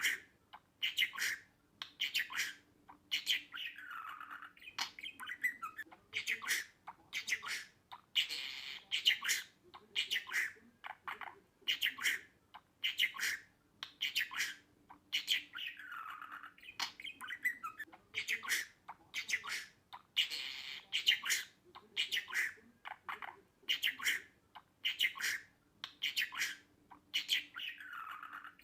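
Budgerigar chattering in quick runs of short chirps and squawks, with a falling whistled note every few seconds.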